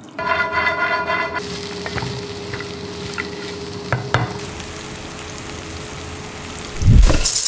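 Food sizzling and frying in a wok, with a few clicks of a utensil against the pan. There is a brief ringing tone in the first second and a low thump with a hiss near the end.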